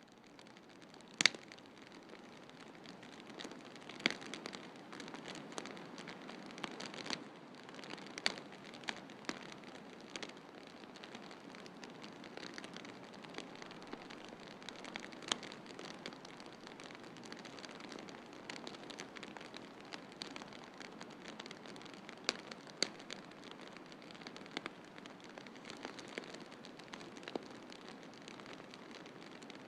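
Wood fire crackling in a fireplace, irregular sharp pops and snaps, the loudest about a second in, over a steady hiss of snowstorm ambience.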